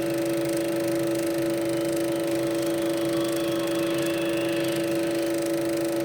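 Steady hum holding two pitches, a strong lower one and a weaker higher one, over an even hiss, from the optical/magnetic soundtrack of a Super 8 sound film playing on a projector.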